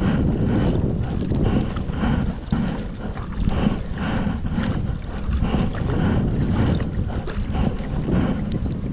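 Strong wind buffeting the action-camera microphone, with the splash of kayak paddle strokes in the water repeating about twice a second.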